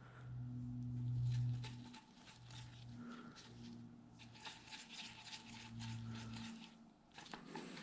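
Faint clicks and light scrapes of small parts and hand tools being handled while a part is refitted on the engine, over a low hum that comes and goes and stops near the end.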